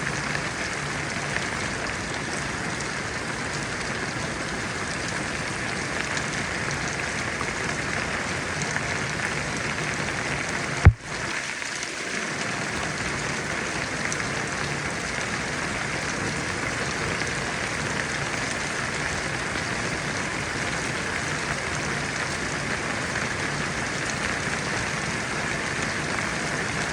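Steady rain, an even hiss of drops falling on a surface. A single sharp click about eleven seconds in is followed by a brief dip in the sound before the rain resumes.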